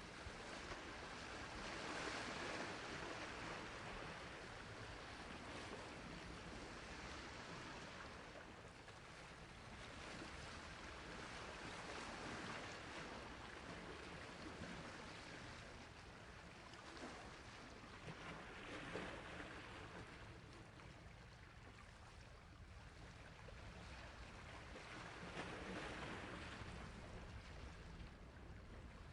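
Sea waves washing onto a shore: a steady hiss of surf that swells and fades in slow surges about every seven seconds.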